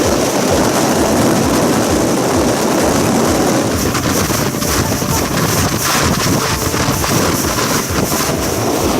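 Steady wind rush on the microphone from a moving motorboat, with the boat's engine and water noise beneath.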